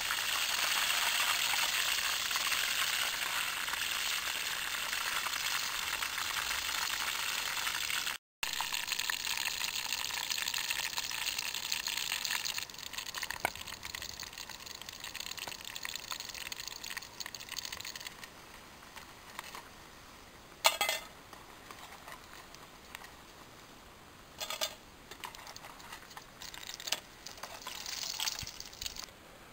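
Breadfruit slices sizzling in hot oil in a metal pot over a campfire. The sizzle is strong for the first dozen seconds, then fades to a faint one. A sharp clink comes about two-thirds of the way in, and lighter clinks follow near the end as a fork lifts the fried slices out.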